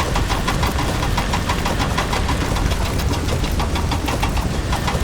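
Small vehicle engine running steadily with a rapid, even knocking clatter, several beats a second.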